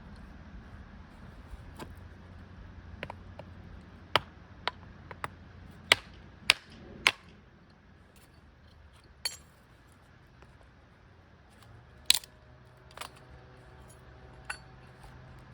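About ten sharp, irregular clicks and knocks of small hard objects, clustered in the middle and again near the end, over a faint low steady hum.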